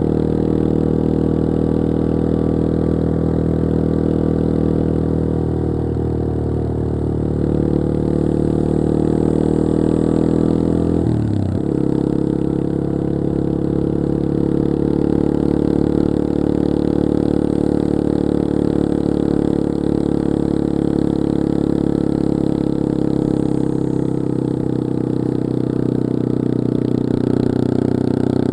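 Yamaha XT225 Serow's air-cooled single-cylinder four-stroke engine running steadily under way. About eleven seconds in, the revs dip sharply and pick up again.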